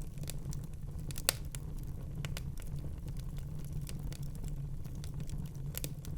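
Fire crackling in a fireplace: a low steady rumble of flame under scattered sharp pops and snaps, one louder pop about a second in and a couple more near the end.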